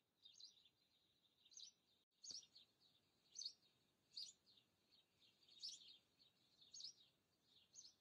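Faint small-bird chirping: short high calls repeated about once a second, with a momentary break in the sound about two seconds in.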